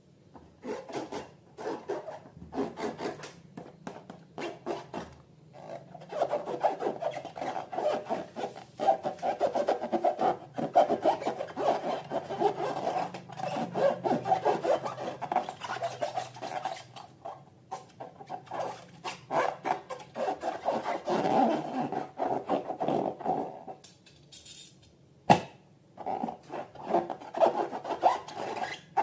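Slime being worked and mixed by hand, heard as rapid, uneven rubbing strokes that come in runs of several seconds with short pauses, and one sharp click near the end.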